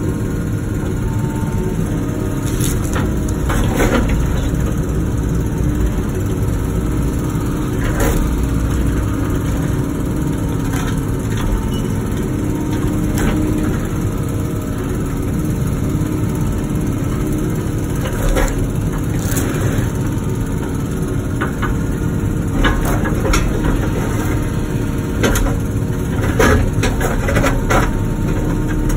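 Wacker Neuson ET145 excavator engine running steadily while the machine works a large rock into place, with scattered sharp knocks and scrapes of bucket on rock, more of them near the end.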